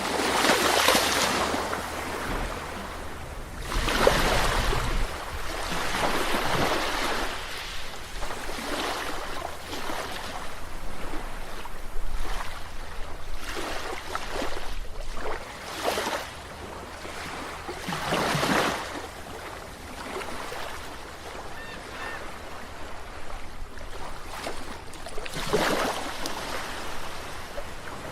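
Sea waves washing onto the shore, surging and falling back every few seconds with a steady wash of surf in between, and a low rumble of wind on the microphone.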